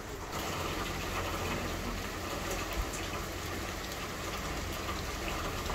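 Steady rain falling on a wet courtyard, with a low steady rumble underneath.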